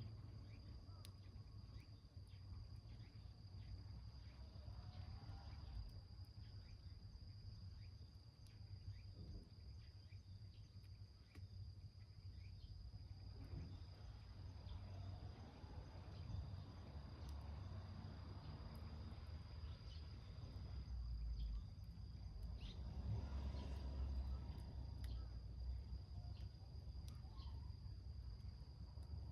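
A small wood fire burning in a milk-can stove, crackling with scattered sharp pops and a low rumble that swells about two-thirds of the way in. Underneath, an insect trills steadily at a high pitch.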